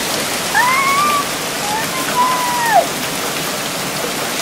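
Heavy rain mixed with hail pelting down in a thunderstorm, a steady loud hiss. A voice is heard briefly over it between about half a second and three seconds in.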